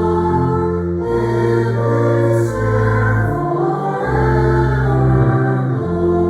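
A choir singing a hymn, with held bass notes sounding beneath the voices and chords changing every second or so.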